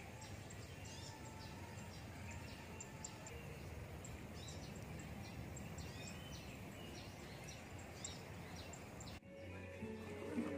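Small birds chirping, many short high calls repeated over a steady outdoor background hiss. The background changes abruptly about nine seconds in, and a voice starts near the end.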